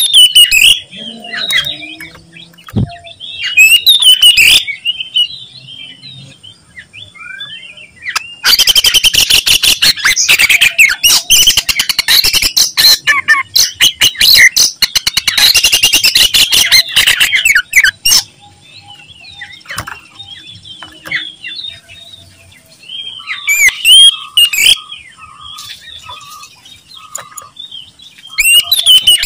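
Oriental magpie-robin (kacer) singing loudly: short bursts of whistled phrases, and in the middle a long run of very rapid notes lasting about ten seconds.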